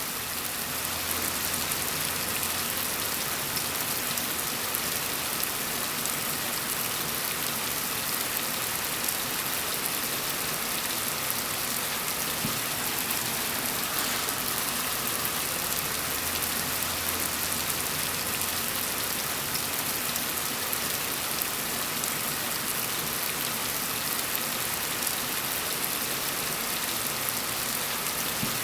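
Steady, even rainfall pattering on a surface, a dense hiss of many fine drops with no change in intensity.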